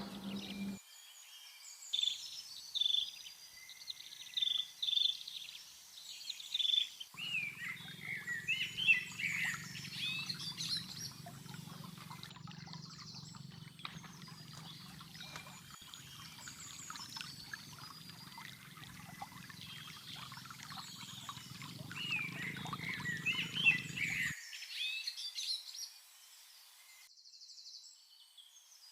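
Small birds chirping and calling over and over, with a low steady hum underneath for much of the stretch that stops abruptly near the end.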